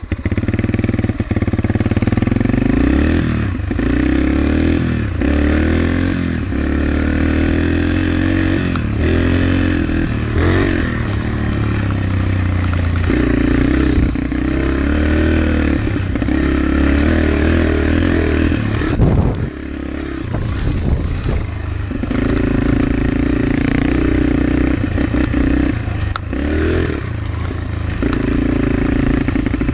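Small dirt bike engine running under way, the revs repeatedly climbing and easing off as the throttle is worked, with a short lull about two-thirds of the way through.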